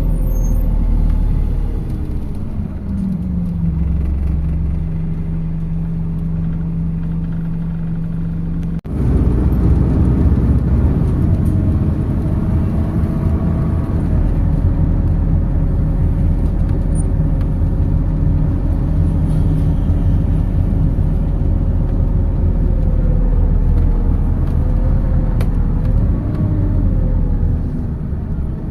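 MAZ 206 city bus running. A steady engine drone holds one tone for the first several seconds. After a sudden break about nine seconds in comes louder driving noise, with a faint whine that rises and falls in pitch.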